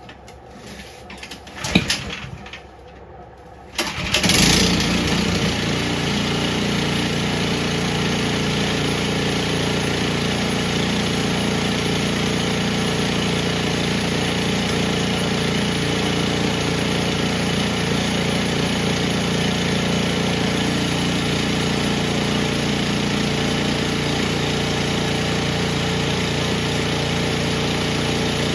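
A few brief knocks, then about four seconds in the Powermate 208cc overhead-valve engine of a single-stage snowblower starts, primed and with the choke off, and settles into a steady run.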